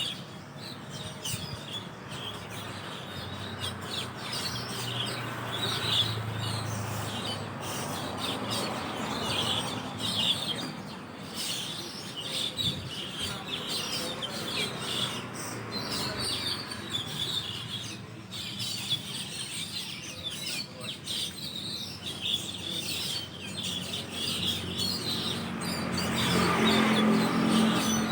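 A flock of Asian glossy starlings chattering from a roost tree, a dense stream of short, high, overlapping chirps and squeaks. A low drone grows louder near the end.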